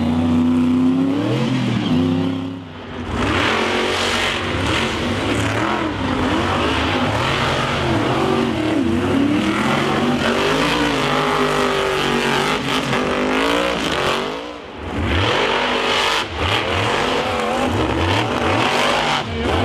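Monster truck engines revving hard, their pitch rising and falling over and over, with two brief drops in level, about three seconds in and again near fifteen seconds.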